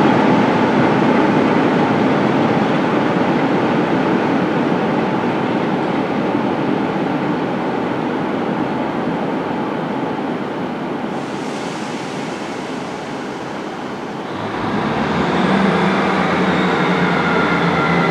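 A locomotive-hauled passenger train with a Class 47 diesel locomotive pulls out of the station, its rumble slowly fading as it moves away. About three-quarters of the way through, a new steady hum and a rising high whine come in.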